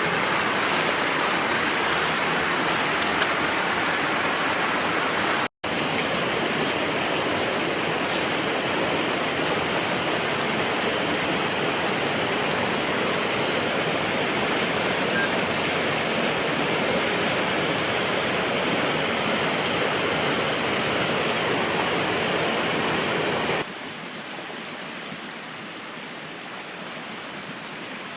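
Steady rushing of a river's flowing water. It breaks off for an instant about five seconds in, then about 23 seconds in turns suddenly quieter and duller.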